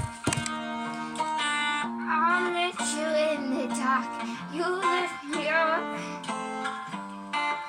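Acoustic guitar music with a wavering, wordless vocal melody over it from about two seconds in.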